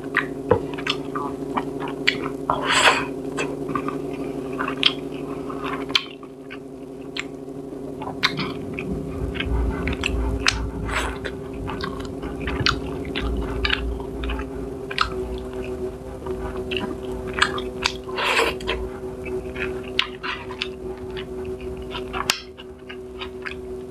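Close-up eating sounds of a person chewing soft tilapia and rice, with many short wet mouth clicks and smacks, over a steady low hum.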